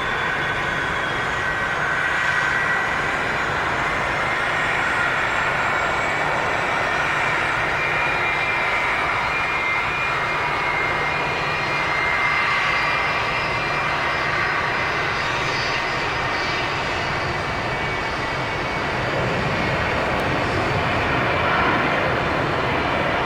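Jet airliner engines running steadily: a high whine over a continuous rush, with no clear rise or fall in loudness.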